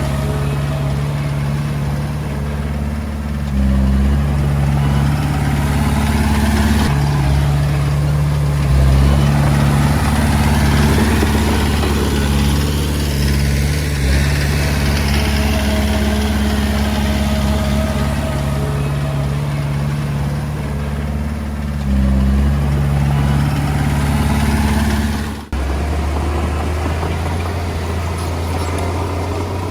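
Diesel engine of a Komatsu D20A bulldozer running steadily, its load and tone stepping up and down several times as it works. About 25 seconds in the sound breaks off for an instant, then the engine carries on with a lower, different tone.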